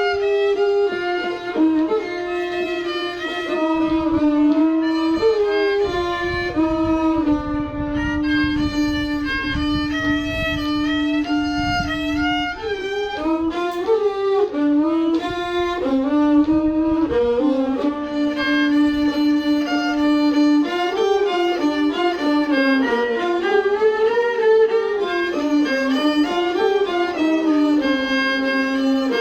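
A solo bowed fiddle playing a Thai classical melody, a single line of held notes and quick runs.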